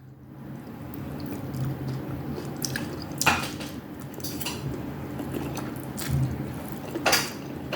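Close-up eating sounds: wet chewing of noodles, with a few sharp clicks of a utensil against a bowl or plate, the clearest about three seconds in and near the end, over a steady low hum.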